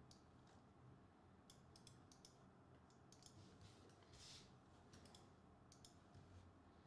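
Near silence with scattered faint clicks and one short soft rustle about four seconds in.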